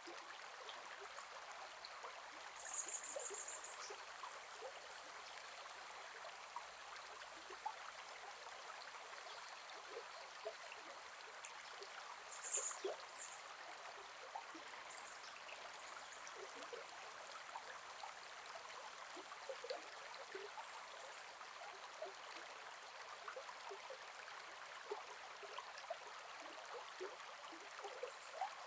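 Gentle forest river flowing: a steady rush of water with small trickles and splashes. A few short, very high chirps stand out, the loudest about three seconds in and another around twelve seconds in.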